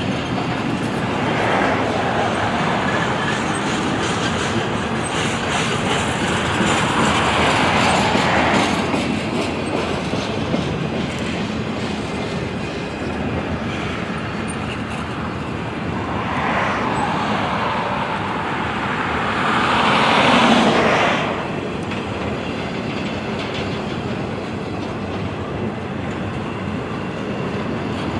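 Double-stack intermodal freight train rolling past: steady rumble of steel wheels on the rails as the loaded well cars go by, swelling louder several times, most of all about twenty seconds in.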